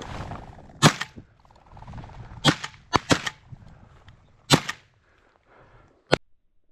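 Shotgun shots at flushing chukar: about six sharp reports spread over five seconds, the first the loudest.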